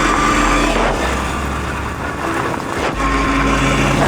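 Electric dirt bike riding fast over gravel: wind rumbling on the microphone and tyre noise, with a faint steady motor whine that shifts pitch about a second in and again near three seconds.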